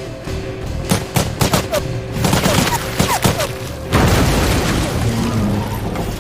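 Film action soundtrack: a rapid string of gunshots and hard impacts, then a loud crashing rush about four seconds in, over the score.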